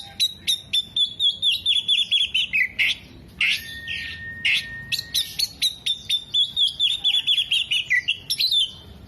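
Oriental magpie-robin in full song: runs of sharp chirps leading into fast falling trills, twice over, with one long held whistle between them about a third of the way in.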